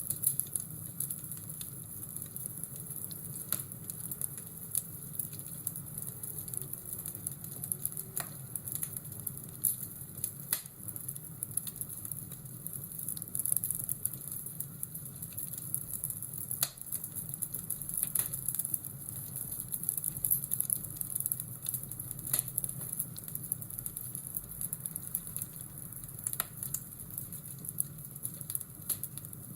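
Fireplace crackling over a steady hiss, with sharp pops every few seconds.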